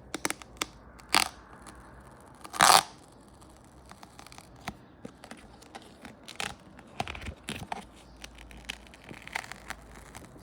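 Adhesive vinyl graphics decal being peeled off a dirt bike's plastic bodywork: scattered crackles and ticks, with one louder tearing rip about two and a half seconds in.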